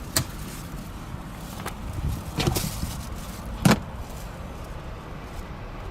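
A few short clicks and knocks from the SUV's cargo-area fittings being handled, the loudest about three and a half seconds in, over a steady low rumble.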